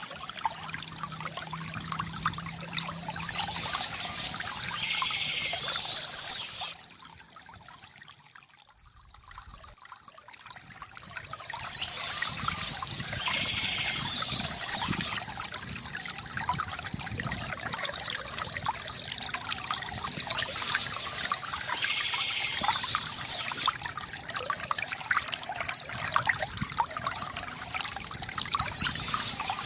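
Small stream trickling and splashing over rocks. The water drops away for a few seconds about a quarter of the way in, then swells back. A short high-pitched sound recurs about every nine seconds.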